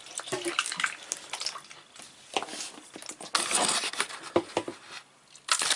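Close handling noises: irregular clicks, knocks and rustles of parts being moved and gripped, with two louder scraping rustles, about three and a half seconds in and near the end.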